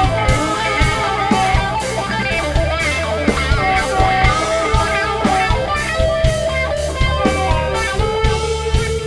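Blues band jam: electric guitar playing bending lead lines over bass guitar and a steady drum-kit beat.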